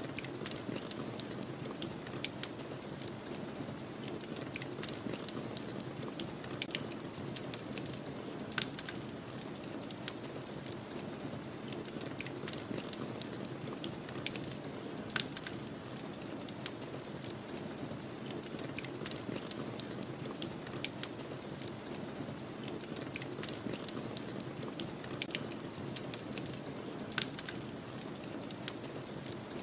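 Wood fire crackling, with frequent sharp, irregular pops and snaps over a steady low rushing noise.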